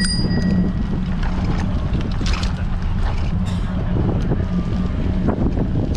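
Strong wind buffeting the action camera's microphone on a moving bicycle: a loud, steady low rumble with faint scattered clicks and rattles. A brief high ring sounds right at the start.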